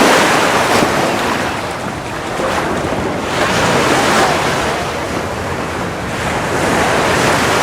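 Ocean surf washing onto the beach, the noise swelling and fading every few seconds, with wind buffeting the microphone.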